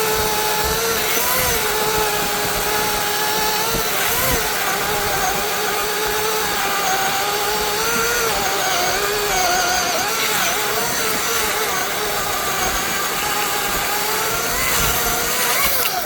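Gas chainsaw with a 16-inch bar running at high revs, cutting through a thick limb; the pitch wavers and dips as the chain bogs in the wood. It cuts off abruptly at the very end.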